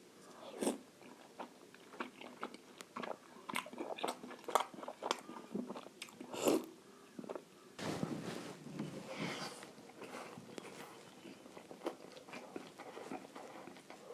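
Close-up eating sounds: irregular bites and chewing with crisp crunches and wet clicks, the loudest bites about half a second in and about six and a half seconds in.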